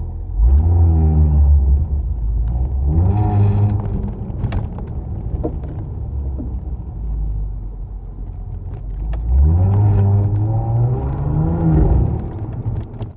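Audi S5 Sportback's 3.0-litre V6, fitted with an aftermarket downpipe and RS exhaust, pulling under acceleration. The engine pitch climbs several times and drops back in between, about three rises in all, the last and longest near the end.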